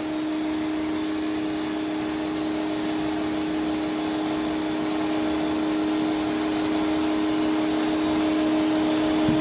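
Electric pressure washer running steadily with a surface cleaner attachment spraying the floor: an even motor and pump hum over the hiss of the water spray.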